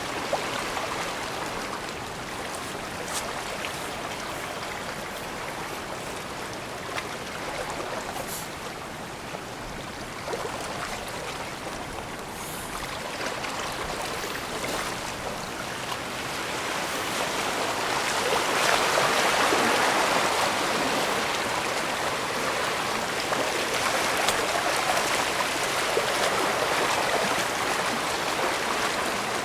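Bay water washing against the shore in a steady rush, swelling to its loudest about two-thirds of the way through.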